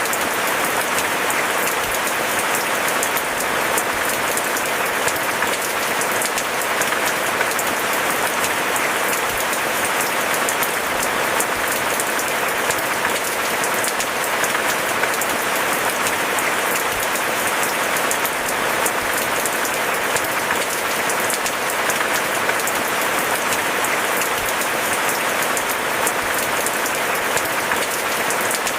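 Steady rain falling, a dense, even hiss of countless small drop impacts that stays at one level throughout.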